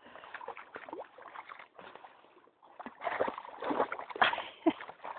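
A dog splashing in shallow stream water, in irregular splashes that grow louder about three seconds in.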